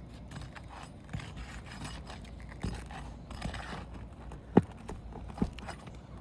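Scraping and prying at asphalt roof shingles while they are loosened for replacement, with two sharp knocks near the end.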